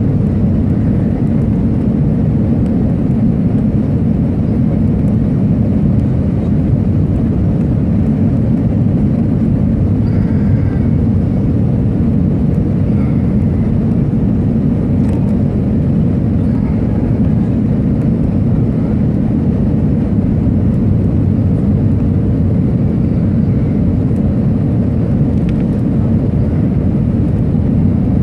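Steady cabin noise inside an Airbus A319 airliner in flight: an even deep rumble of engines and airflow with a faint steady hum.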